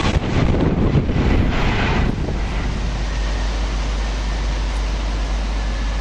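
Rushing air and rail noise of a Class 390 Pendolino dying away after passing at speed. The noise drops off about two seconds in, leaving a steady wind rumble on the microphone.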